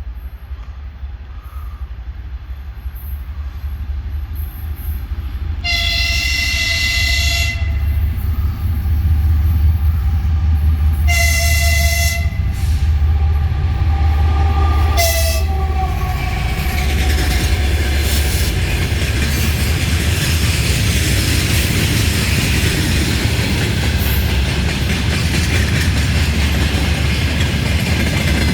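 TE33A diesel locomotive approaching with a deep engine rumble that grows louder, sounding its loud air horn three times: a blast of about two seconds, a shorter one, and a quick toot. The freight wagons then roll past with a steady rolling noise and wheel clatter.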